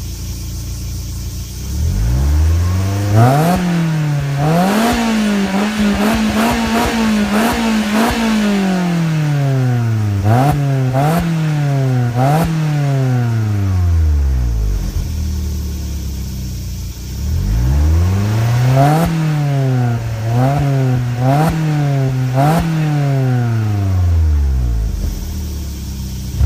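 VW Lupo GTI's four-cylinder petrol engine through its stock exhaust, revved from idle in two rounds. Each round climbs, is held high with a string of quick throttle blips, then falls back to idle, with a short idle in between.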